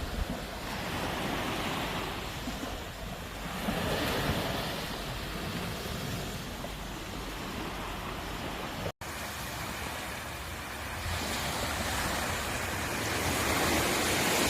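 Sea waves breaking and washing on the shore, the surf rising and falling in slow swells. A split-second gap of silence cuts in about nine seconds in.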